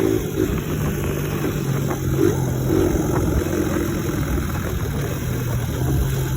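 Single-cylinder four-stroke engine of a 1986 Suzuki DR100 dirt bike running at low, fairly steady revs, its pitch shifting slightly a couple of times.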